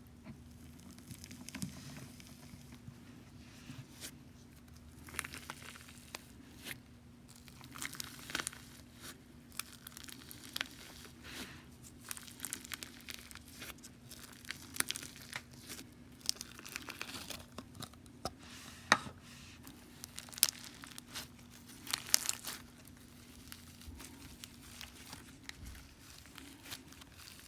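Stiff, bead-filled slime being squished and pulled by hand, giving irregular crackles and small pops, with a faint steady hum underneath.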